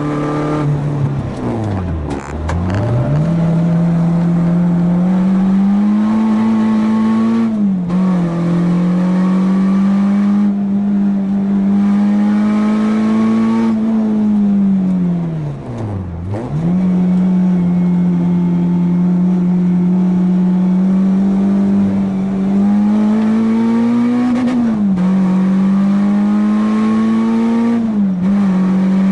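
A four-cylinder car engine is worked hard on a track lap, held at high revs and shifting up through the gears. Twice, about 2 s in and again midway, the revs fall steeply and then climb back as it pulls out of a corner. The pitch drops briefly at each upshift.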